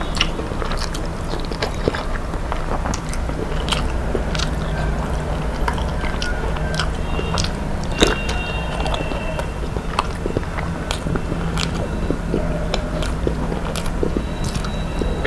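Close-up chewing and biting of food: a stream of wet clicks and crackles from the mouth, with one sharper crunch about halfway, over a steady low hum.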